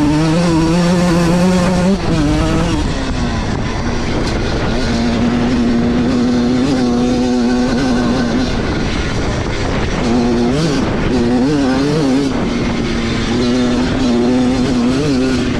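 1997 Honda CR125R two-stroke engine running hard, its pitch rising and falling with the throttle. It holds a steady note for a few seconds at a time, with a brief drop about two seconds in.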